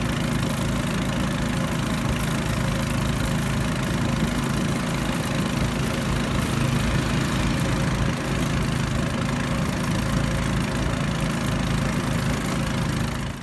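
A raft's outboard motor running steadily at an even, unchanging speed.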